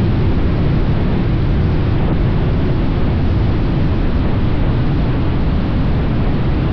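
Steady rush of wind and road noise from a motorcycle riding at speed, heard from the bike-mounted camera.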